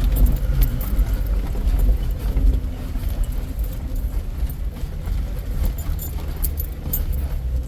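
Off-road vehicle crawling over a rocky trail: low, steady engine and drivetrain rumble, with scattered clicks and knocks from rocks under the tyres and rattles in the vehicle.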